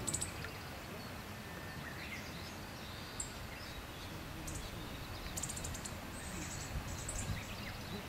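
Scattered short, high-pitched chirps of small birds over a steady low background rumble, with a quick run of notes about five and a half seconds in.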